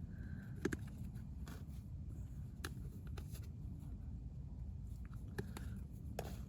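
Scattered light clicks and taps of hands handling spices and a bowl of paneer while it is seasoned, over a steady low rumble.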